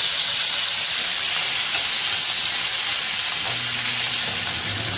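Pork rib pieces sizzling steadily in hot oil in a non-stick frying pan.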